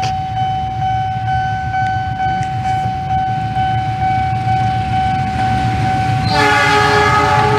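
Diesel locomotives of a passenger train running with a low rumble and a steady high whine, then a loud multi-note train horn sounding about six seconds in and held on.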